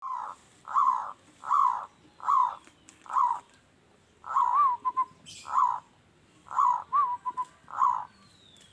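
Zebra dove (perkutut) singing: a series of low, rounded coos about one every 0.8 s, broken twice by a phrase with a quick wavering note and a few short clipped notes. The voice is coarse and loud.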